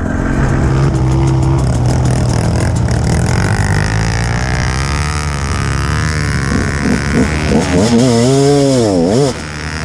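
Dirt bike engines running steadily, then revved hard up and down in quick swings, as bikes work through a muddy bog.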